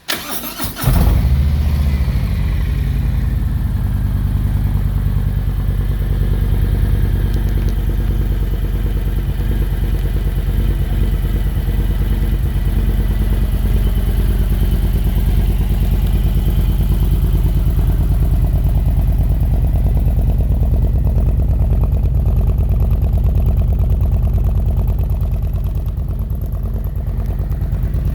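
Harley-Davidson Milwaukee-Eight 117 V-twin with an unbaffled S&S Sidewinder 2-into-1 exhaust, cranked on the starter and catching about a second in. It then idles steadily with a deep, loping rumble.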